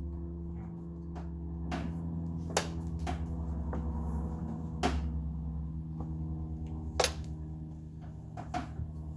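Scattered sharp clicks and knocks of hard objects being handled, about six in all, over a steady low electrical hum.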